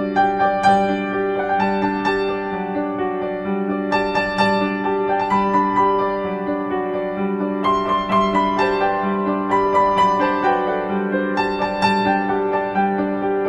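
Piano music: a slow melody of single notes over held low chords.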